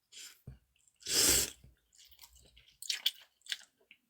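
Mouth sounds of someone eating cold noodles: one loud breathy slurp about a second in, then quiet chewing and a few small wet clicks.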